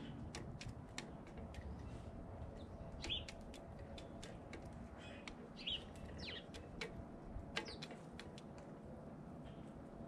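Small birds at a feeder giving a few short, quickly falling chirps, about three seconds in and a few more later, over a steady scatter of faint sharp ticks.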